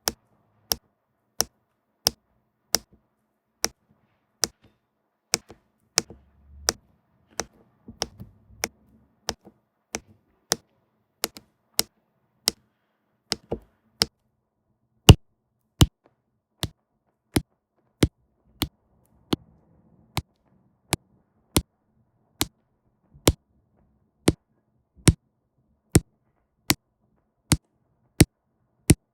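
Crisp, evenly spaced clicks, about three every two seconds: a diamond-painting pen tapping resin rhinestones down onto the canvas one at a time.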